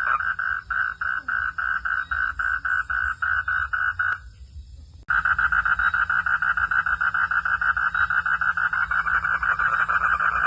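Frogs calling at night in a rapid, even pulsing chorus, about three or four pulses a second. About four seconds in it drops out for roughly a second, then starts again abruptly with denser pulsing.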